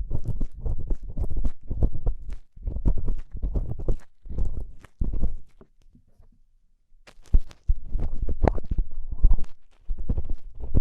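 Ear-cleaning tool scraping and rubbing inside a microphone's artificial ear, in bursts of close, muffled strokes, with a short pause just past the middle.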